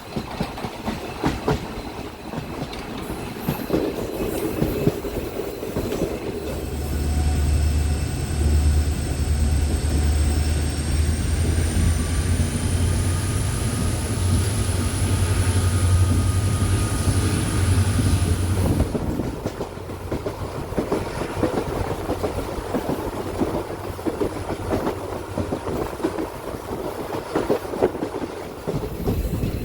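A train running along the track, its wheels clicking over the rail joints. From about a fifth of the way in to about two-thirds through, a deep steady drone and a thin high whine join the running noise and then drop away.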